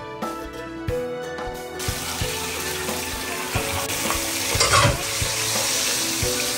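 Background music for about the first two seconds, then masala-coated chicken frying in hot oil: a steady sizzle with occasional clicks of a utensil.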